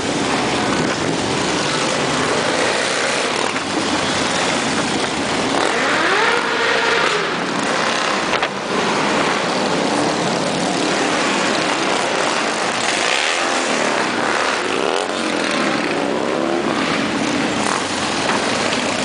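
A steady stream of motorcycles riding past in a long procession, engine notes rising and falling as one bike after another goes by.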